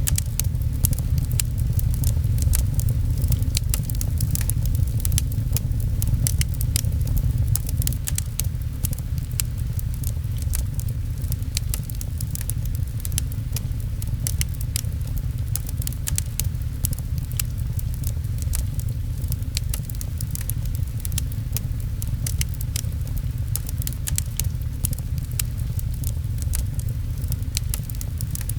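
Fireplace crackling, with frequent sharp irregular pops, over a steady low rumble and the patter of rain on a window.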